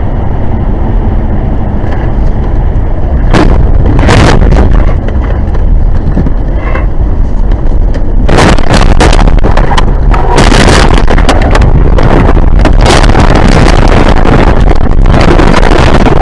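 Loud, steady road and engine rumble of a moving car, with several sharp knocks or bangs, the first about three seconds in and more from about halfway on.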